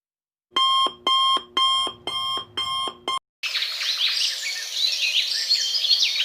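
An electronic alarm ringing in five quick repeated bursts of stepping tones, like an alarm clock. It stops, and birds chirp busily with many short rising and falling calls.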